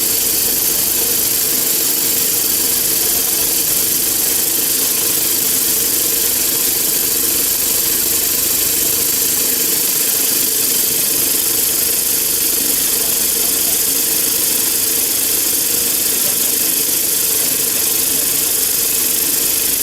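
CNC saw for solid round steel bar running steadily: a constant mid-pitched hum under a loud, even hiss.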